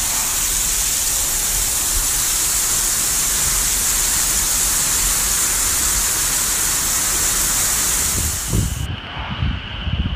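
Heavy tropical-storm rain pouring down in a steady hiss. About nine seconds in it cuts to gusts of wind buffeting the microphone.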